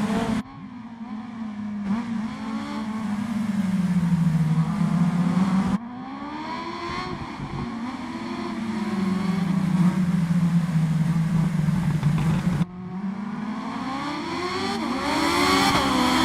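Kawasaki Ninja H2's supercharged inline-four engine revving, its pitch sinking and climbing again in long slow glides. The sound is edited into three pieces with abrupt cuts, just after the start, at about six seconds and at about thirteen seconds.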